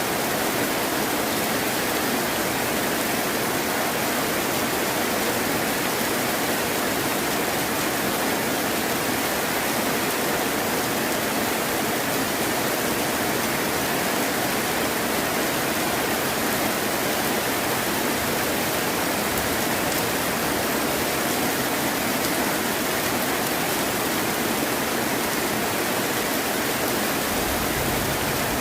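Steady heavy rain, an even hiss with no thunder or distinct crackles.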